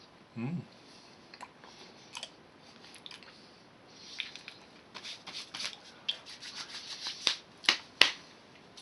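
Plastic snack packaging being handled, crinkling and crackling in a run of sharp clicks that grows louder over the last few seconds, with one loud crack near the end. A short hum-like vocal sound comes just after the start.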